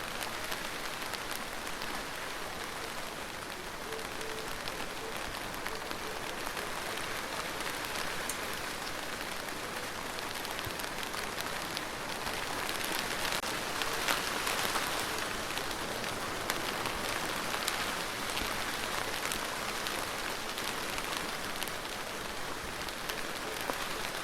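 Steady rain falling on a surface, with single drops ticking through it. It swells a little heavier for a few seconds midway.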